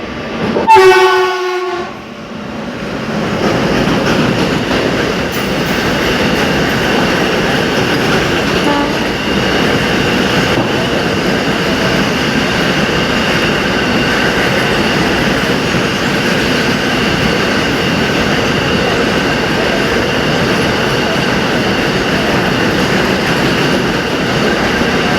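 WAG-9 electric locomotive's horn giving one short, loud blast about a second in, then the steady rumble and clickety-clack of the train's wheels on the rails as it runs through the station without stopping.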